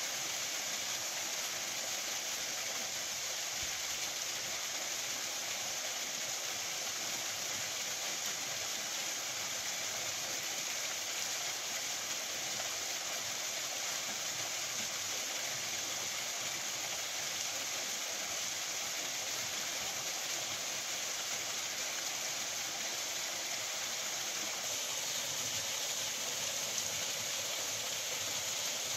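Waterfall rushing over rocks, a steady, unbroken roar of falling water.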